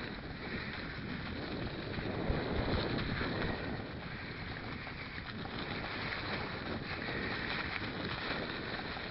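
Mountain bike ridden over a rough forest dirt track, heard from a camera on the bike: wind rushing over the microphone, tyre noise and the bike rattling and knocking over bumps, with a sharp jolt about two seconds in.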